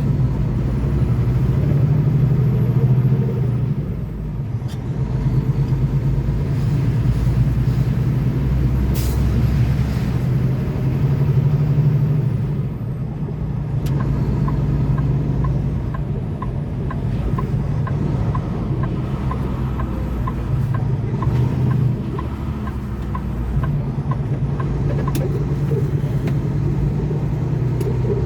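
Semi-truck engine and road noise heard inside the cab: a steady low hum that swells and eases. A light, regular ticking runs for several seconds midway.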